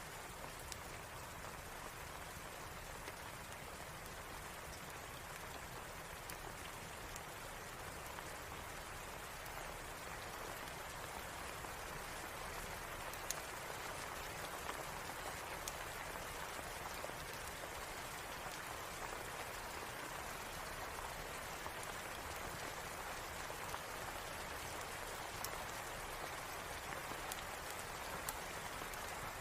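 Steady rain falling, an even hiss of drops with a few scattered sharp ticks, swelling slightly after about ten seconds.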